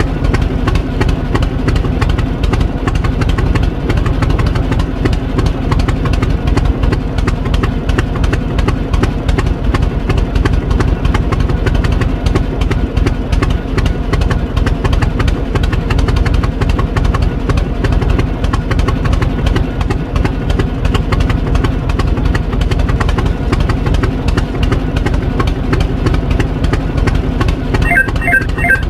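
Tractor engine running steadily with a rapid, even low rumble. Organ-like music begins just before the end.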